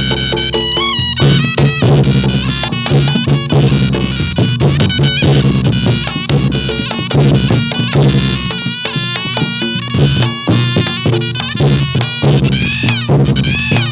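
Reog Ponorogo gamelan playing continuous dance music for jathilan. A slompret, a shrill double-reed trumpet, plays a wavering, bending melody over rhythmic kendang drumming and gong-chime instruments.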